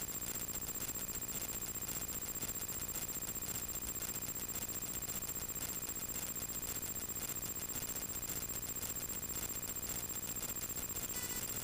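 Steady cabin noise of a light aircraft's piston engine running at low power, with a thin, high-pitched whine throughout.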